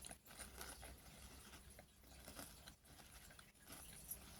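Near silence, with faint chewing of crunchy potato chips.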